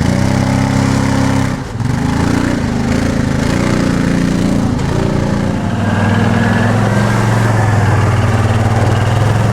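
An off-road vehicle's engine running on a rocky trail, the throttle worked so that the pitch rises and falls over the first half, then holding a steadier, stronger note from about six seconds in.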